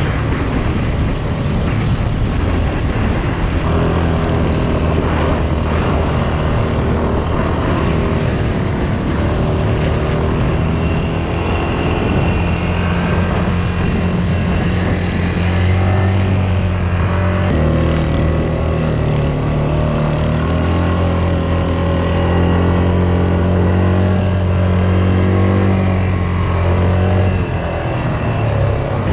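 Quad bike engines running under load, the pitch rising and falling with the throttle.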